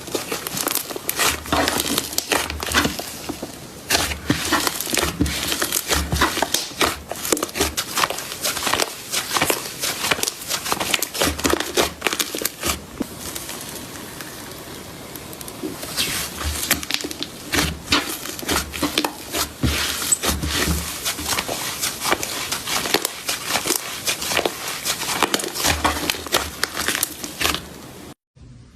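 Slime being squished, pressed and stretched by hand, with dense crackling and popping clicks. It goes softer for a few seconds in the middle, then picks up again.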